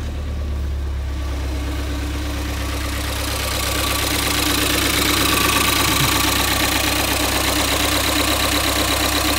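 Ford Fiesta ST's 1.6-litre turbocharged four-cylinder engine idling steadily. About three to four seconds in it grows louder and the fast clicking of the direct fuel injectors comes through, which is normal for a direct-injected engine.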